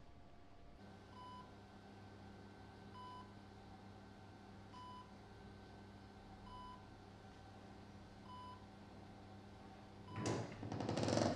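Hospital patient monitor giving a short electronic beep about every two seconds, five times, over a faint steady hum. Near the end there is a louder clatter, like a door opening.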